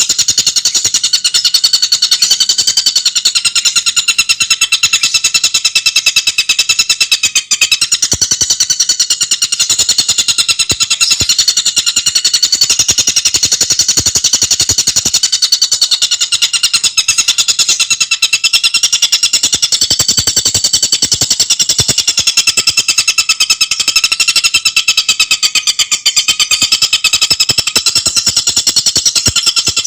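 Tengkek buto songbird singing a continuous, very rapid, high-pitched chattering trill of tightly packed repeated notes.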